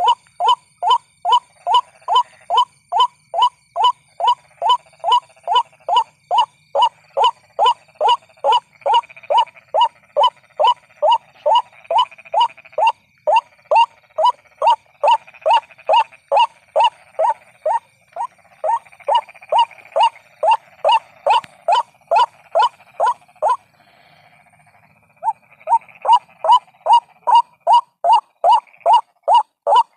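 White-breasted waterhen call used as a trapping lure: one loud note repeated rapidly, about two to three times a second, pausing briefly a little past three-quarters of the way through before starting up again.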